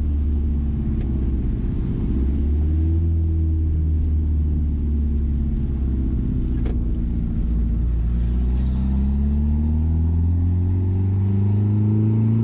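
Mazda B-series pickup engine, running on a Holley Sniper EFI conversion, cruising steadily, then rising in pitch from about two-thirds of the way through as the truck accelerates.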